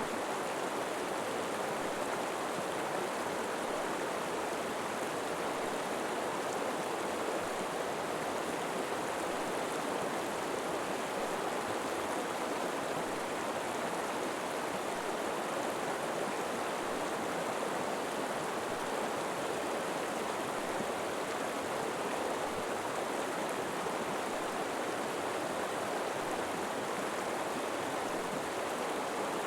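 River water flowing steadily over rocks, an even rushing with no breaks or single splashes.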